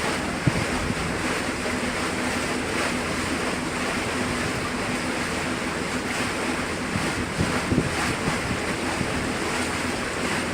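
Wind rushing over the microphone aboard a moving houseboat, mixed with water noise and a steady low hum.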